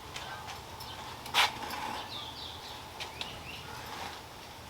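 A few short bird chirps, with a single sharp knock about a second and a half in and a few faint clicks.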